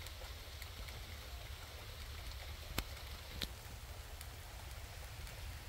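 Light rain and mist falling, a steady soft hiss with scattered drops ticking sharply on a nearby surface, two of them louder just after the midpoint.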